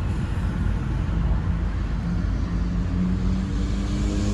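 A motor vehicle running, heard as a steady low rumble with road noise. Its engine note rises a little in the second half.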